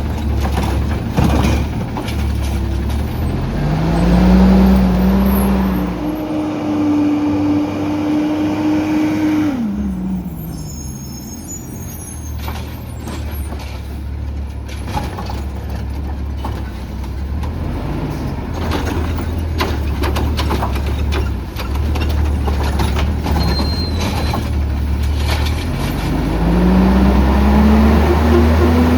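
Autocar ACX garbage truck with a Heil Rapid Rail automated side-loader arm working a trash route: the engine revs up, holds a raised pitch for a few seconds while the arm's hydraulics run, drops back to idle, then revs up again near the end.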